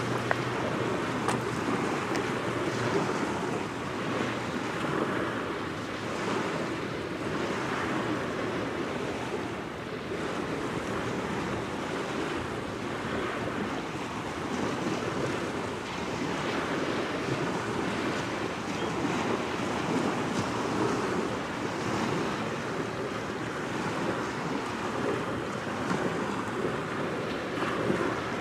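Waves washing onto the shore with wind blowing across the microphone: a steady rushing that gently swells and eases.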